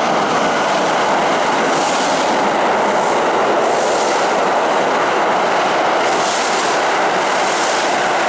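Kintetsu Vista Car limited express electric train running along the platform close by: a loud, steady rumble of wheels on rail, with a hiss that swells every second or two as the cars go past.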